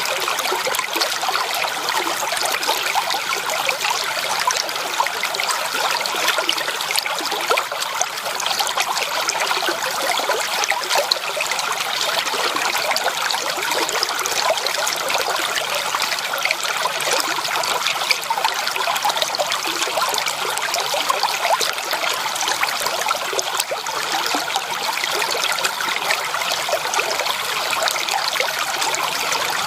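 Stream water flowing steadily, a continuous trickling and splashing rush that does not change.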